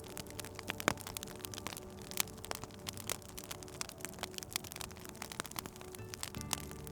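Wood fire crackling, with many sharp, irregular pops and snaps over a faint low steady hum.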